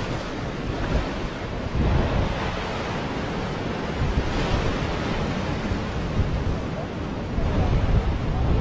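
Ocean surf breaking and washing up the beach, with wind buffeting the microphone, strongest near the start and again near the end.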